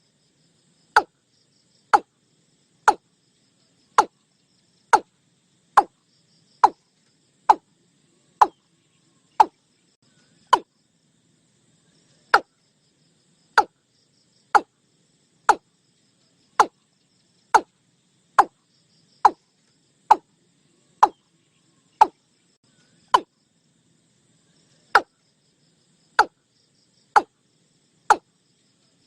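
Watercock giving a series of short, hollow single notes about once a second, each dropping slightly in pitch, with a couple of longer pauses.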